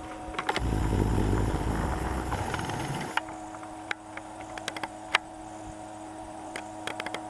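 A small boat's motor hums steadily. A loud rush of noise comes in about half a second in and lasts some two and a half seconds, and scattered sharp clicks follow later.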